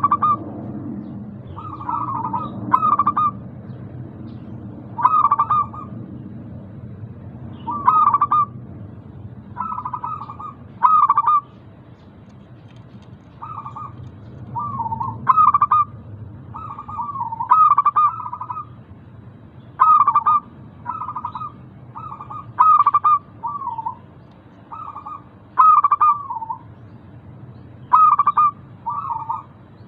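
Local zebra dove (perkutut) cooing over and over in short phrases of two or three notes, a phrase every second or two. It is a pancingan song, played to prompt caged perkutut that are reluctant to sing. A low steady hum lies underneath.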